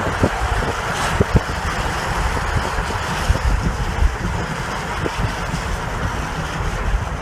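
Gusty wind buffeting the microphone in irregular low thumps, over a steady rushing roar.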